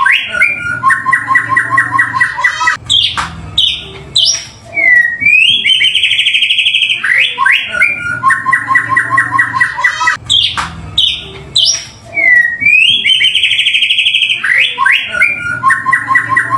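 White-rumped shama (murai batu) singing loudly: rapid trills, quick doubled notes and fast up-and-down whistles in a phrase sequence that repeats about every seven and a half seconds. This is a looped lure recording meant to set a caged shama singing.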